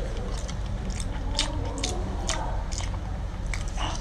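Close-miked chewing of a mouthful of spicy stir-fried shellfish, wet mouth sounds broken by scattered short sharp clicks.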